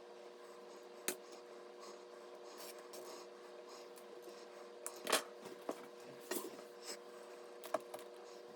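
Scattered light clicks and rubbing from small parts being handled, over a steady hum. The sharpest click comes about five seconds in, with a quick run of them after it.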